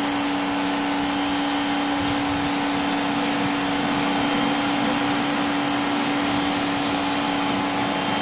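Bosch AQT 40-13 electric pressure washer running steadily while spraying, its motor and pump holding one constant hum under the broad hiss of the water jet.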